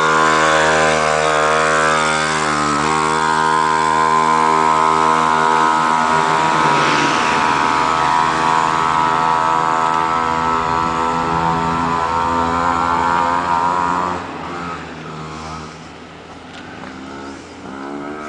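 Mini motorbike (pocket bike) engine running hard at high revs, held nearly steady with a brief dip in pitch about three seconds in. About fourteen seconds in the sound falls away sharply and turns weaker and uneven.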